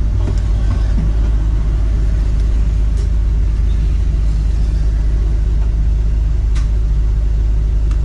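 Perodua Kancil's engine idling with a steady low rumble while its air-conditioning runs; a couple of faint clicks partway through.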